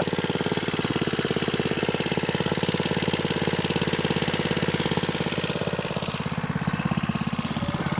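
Small Briggs & Stratton single-cylinder engine on a vintage minibike, running steadily with an even, rapid firing beat. It goes briefly a little quieter about six seconds in.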